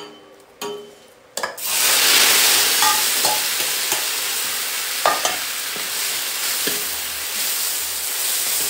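Food dropped into hot oil in a pan: a loud sizzle starts suddenly about one and a half seconds in and keeps going while it is stir-fried, with a few clinks of the spatula against the pan.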